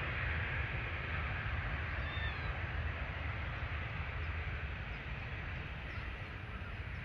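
Jet airliner engine roar slowly fading as the aircraft moves away, over a heavy low rumble of wind on the microphone. A short chirp sounds about two seconds in.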